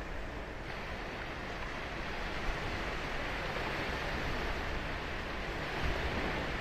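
Ocean surf washing onto a sandy beach: a steady rushing hiss that grows brighter about a second in and swells slightly later on.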